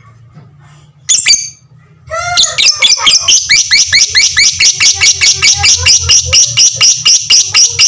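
Lovebird giving its long 'ngekek' chatter: a single shrill call, then from about two seconds in a fast, even run of shrill repeated notes at about five a second that keeps going.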